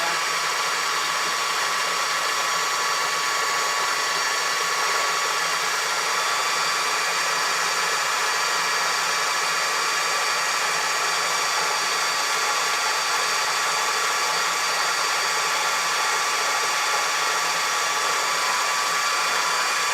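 Electric food processor running steadily at high speed, a constant motor whir, while it blends egg yolks, mustard, lemon juice and olive oil into mayonnaise.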